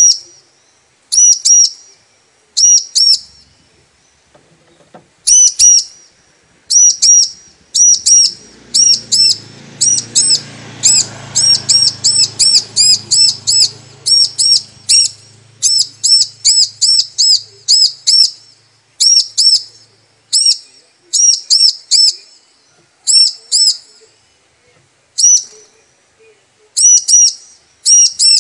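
Female bar-winged prinia (ciblek) calling: short, very high chirps in quick pairs and triplets, repeated over and over, with faster runs in the middle. This is the female's call to the male, used as a lure to set a male ciblek singing. A faint low rumble runs underneath for several seconds in the middle.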